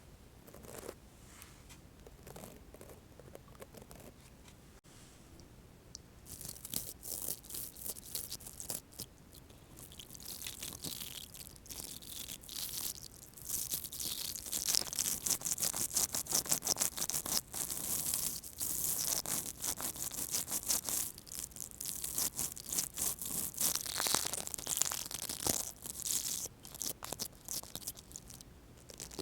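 Interdental toothbrush bristles scratching in rapid strokes, faint at first, starting about six seconds in and growing louder.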